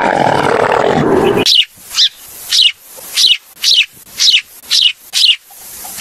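A dromedary camel groaning loudly, cut off abruptly about a second and a half in. Sparrows chirping follow, short high chirps about twice a second.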